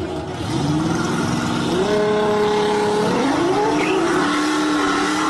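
Car engine accelerating hard. The pitch rises and holds, drops briefly about three seconds in as the car shifts gear, then climbs and holds again.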